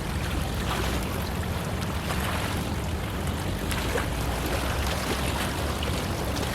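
Steady rumble of wind buffeting an outdoor camera microphone, over the wash of sea water at a harbour entrance.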